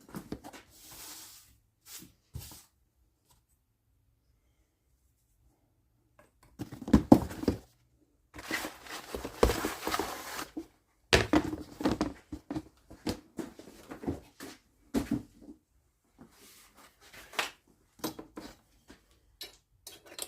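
A wooden fretboard strip being worked by hand, planed or sanded, in irregular rasping strokes of a second or two each, with sharp knocks of the piece and tool being handled in between. The first few seconds are almost silent before the strokes begin.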